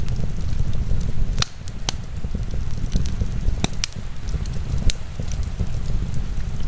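Wood fire in a fireplace crackling, with a few sharp pops (about four loud ones) over a steady low rumble.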